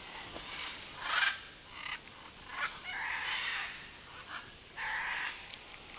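Macaws calling: several harsh, rasping squawks spaced a second or two apart, the loudest about a second in.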